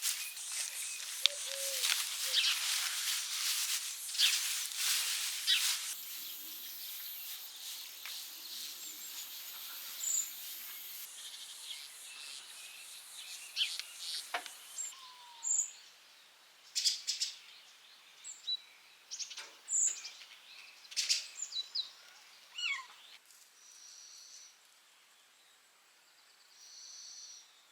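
Birds chirping: scattered short chirps and whistles, with dense rustling and clicking through roughly the first six seconds.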